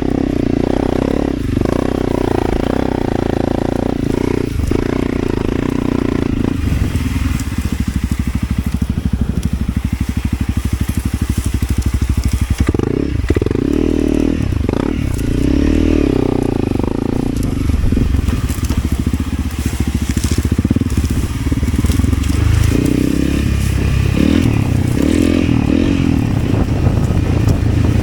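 Motorcycle engine running under way, its revs rising and falling, with a rough crackling noise over it.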